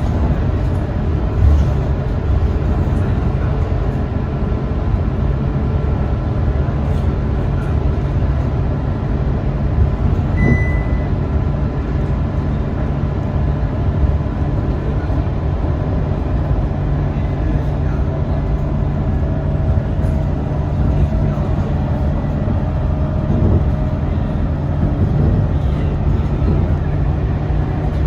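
Scania K230UB diesel bus running steadily on the road, a continuous engine drone and road rumble. A brief high beep sounds about ten seconds in.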